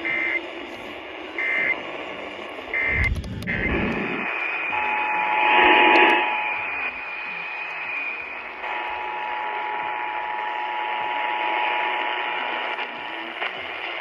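Emergency Alert System tones heard over noisy AM/FM radio reception: three short bursts of end-of-message data squawk, then static, then the two-tone attention signal sounding over a steady hiss, dropping out briefly in the middle.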